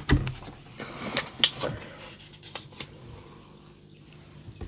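A few light clicks and taps from craft supplies and card being handled on a desk, most of them in the first two or three seconds.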